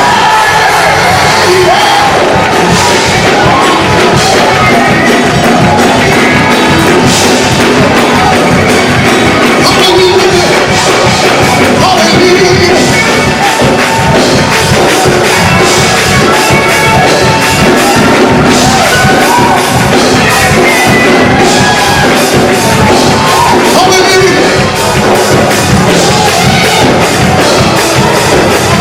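Loud gospel music with a fast, steady beat, and a congregation shouting and singing along over it in a large hall.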